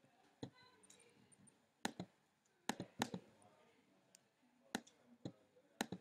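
Scattered sharp clicks of a computer mouse and keyboard being worked, about eight at uneven intervals, some in quick pairs.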